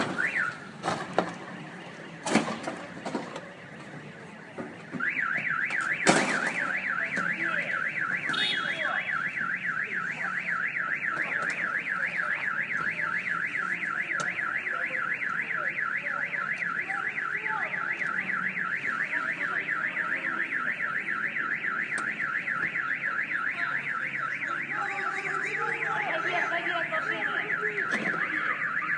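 A few sharp knocks, then about five seconds in a car alarm starts up: a fast warbling electronic tone that keeps going steadily.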